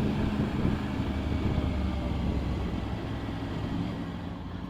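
Motorcycle engine and wind noise heard from the rider's own bike while riding, a steady low hum that eases off and gets quieter towards the end as the bike slows.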